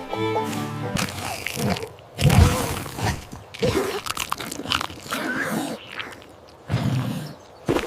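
Cartoon sound effects: a string of irregular crunching and smacking noises with short gaps between them, the loudest a heavy low thump about two and a half seconds in.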